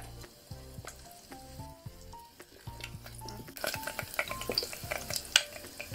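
Shallots and ginger sizzling in hot oil in a stainless steel pot, with a spoon clinking against the pot; the crackling sizzle grows much louder about halfway through. Soft background music with piano-like notes plays underneath.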